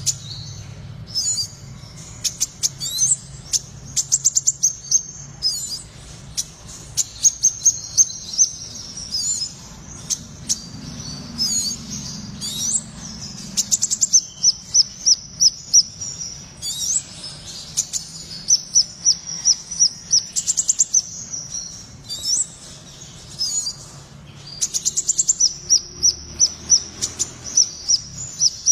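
Sepah raja (scarlet minivet) singing hard in a long, busy run of high notes: quick strings of sharp staccato chips ('trotol' rattles) alternate with sweeping whistled notes and trills. A faint low hum lies underneath.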